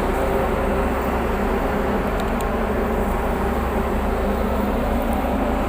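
Tugboat diesel engines running steadily as the tug pulls on its towline: a loud, even drone with a low hum and steady pitched tones.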